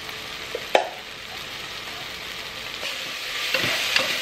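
Tomato and spice masala sizzling as it fries in a pressure cooker pot on a gas stove. A sharp metal spoon clink comes about a second in. Near the end the sizzle grows louder as the masala is stirred, with the spoon knocking against the pot a few times.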